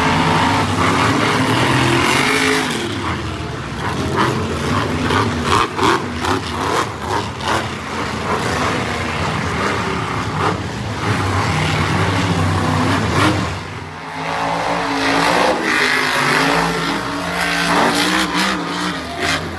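Monster truck engine revving hard, its pitch rising and falling with the throttle, with a run of short sharp bursts a few seconds in.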